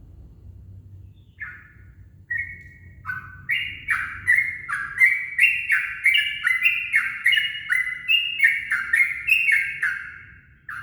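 Trucukan (yellow-vented bulbul) singing. A few separate notes open it, then a long bubbly run of quick repeated notes starts about three seconds in, speeding up and continuing to the end. It is the dawn song used as a lure to set other bulbuls singing.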